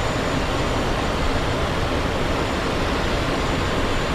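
Steady cockpit noise of a Cessna Citation XLS business jet in flight: an even rushing hiss of airflow and its twin turbofan engines, with a faint high steady whine.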